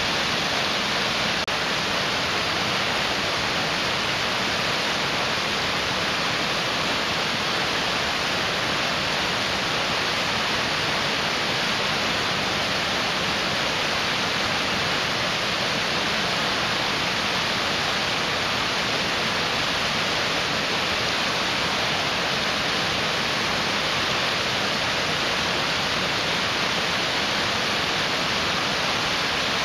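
Mountain stream rushing, a steady, even hiss of fast-moving water.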